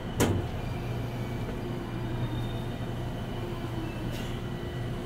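Steady low hum inside a 189-series express train car standing at a station platform, with a sharp thump about a quarter second in and a fainter knock near the end.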